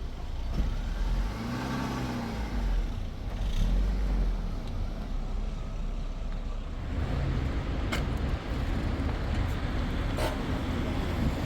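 A motor vehicle running with a steady low rumble, its engine pitch rising and falling twice in the first few seconds; two sharp clicks come later.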